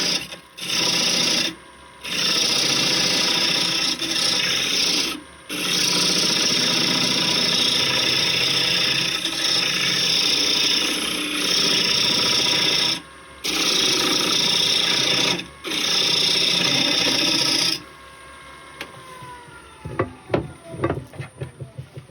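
A turning tool cuts into a spinning wood blank on a lathe, making a steady rasping scrape broken by a few short pauses where the tool lifts off. About 18 seconds in, the cutting stops and the lathe spins down with a falling whine, followed by a few light knocks.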